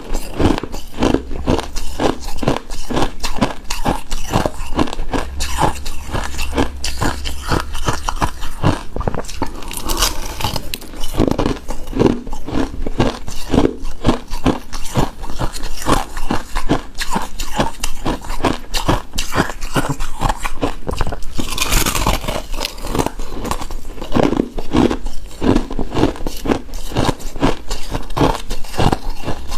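Close-miked chewing and crunching of icy shaved-ice dessert: dense, irregular crunches several times a second, with a short hissing scrape about 22 seconds in.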